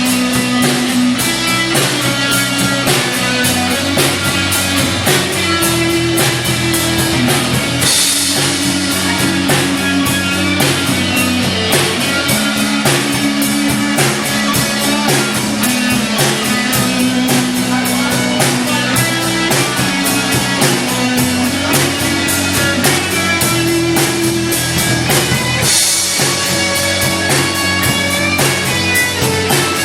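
Live rock band playing an instrumental passage: guitar notes over a steady, fast drum beat, with a cymbal crash about a quarter of the way in and again near the end.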